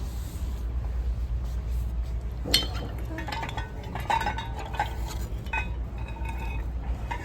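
Monster Jam truck ornaments clinking and knocking against each other as they are handled, in a string of sharp, irregular clinks starting about two and a half seconds in, over a steady low hum.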